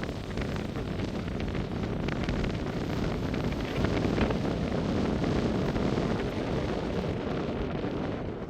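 Wind buffeting the microphone: a steady rough rumble that swells a little midway.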